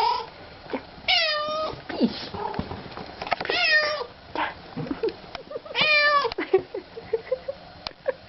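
A domestic cat meowing three times, each a drawn-out half-second call, spaced a little over two seconds apart.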